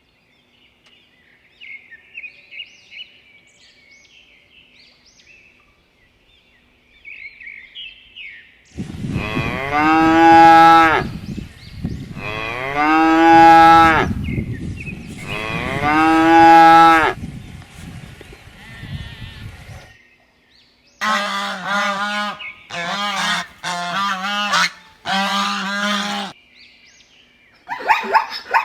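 Cow mooing three times, each moo long, loud and drawn out, after several seconds of faint bird chirping. Then come four shorter animal calls about a second apart.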